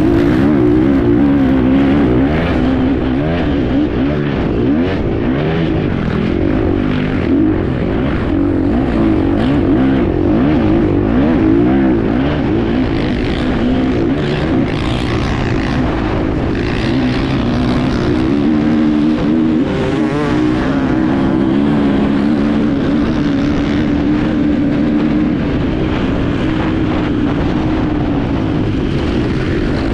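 Enduro motorcycle engine heard on board, revving up and down constantly as the throttle opens and closes, with many short knocks and rattles throughout.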